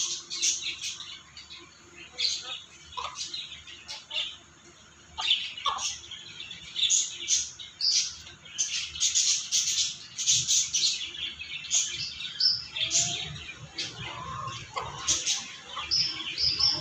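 Birds chirping: many short, high calls in quick succession, with a few lower calls in between.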